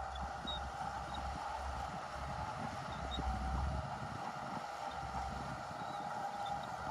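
Shantui crawler bulldozer's diesel engine running steadily under load, its low rumble swelling and easing as it works, with faint clicks on top.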